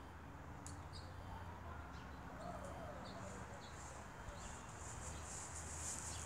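Faint birdsong: short, high chirps scattered throughout, growing denser near the end, over a low steady hum.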